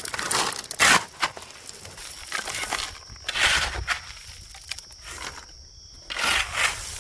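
Irregular crunching and crinkling noises in short bursts a second or more apart.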